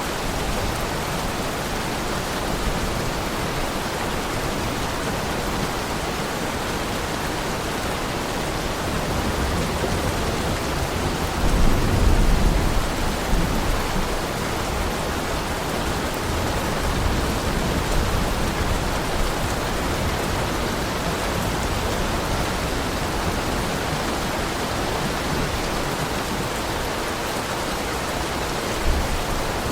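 Heavy rain falling steadily in a dense, even hiss. A low rumble swells briefly about twelve seconds in, and again faintly near the end.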